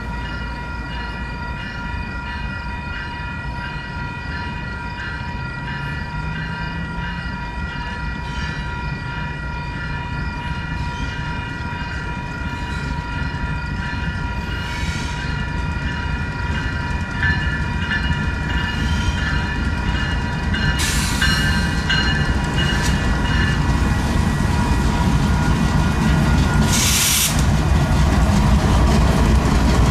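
Grade-crossing bells ringing steadily while a Union Pacific freight train's diesel-electric locomotives approach and pass, their engine and rail rumble growing louder. There is a short burst of hiss near the end.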